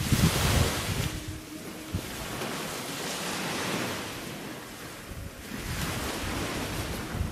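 Sea waves washing against a rocky shore, with wind buffeting the microphone. The rush is loudest in the first second and swells again about three and six seconds in.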